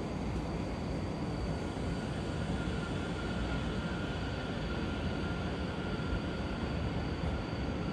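E231-0 series commuter EMU running, heard from inside the car: a steady rumble of wheels on rail, with a faint high whine from its Mitsubishi IGBT-VVVF traction inverter.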